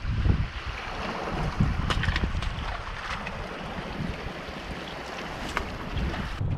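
Wind buffeting the microphone over the steady wash of heavy surf, with a few sharp clicks.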